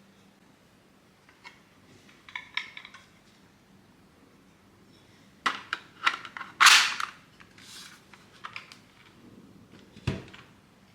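Sharp clicks and snaps of 3D-printed plastic parts being handled. The loudest is a cluster of snaps about six to seven seconds in, and a single low thump comes near the end.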